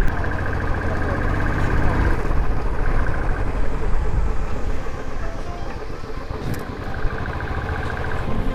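Royal Enfield motorcycle riding at road speed: the engine runs steadily under heavy wind rumble on the microphone.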